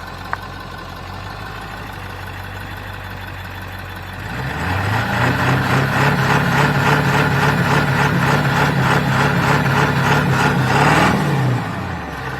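A 2007 Ram 1500's 5.7 HEMI V8 idling, then revved up sharply about four seconds in and held at high revs for about seven seconds before dropping back to idle near the end. The truck is in four-low, trying to drive off where it is bottomed out on its differential.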